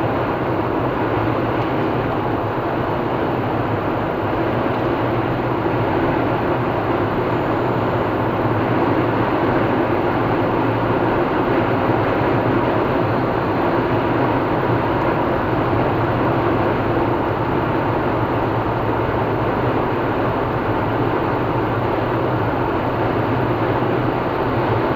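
Car driving at steady speed on a highway: a continuous drone of tyre and road noise with a low engine hum, unchanging throughout.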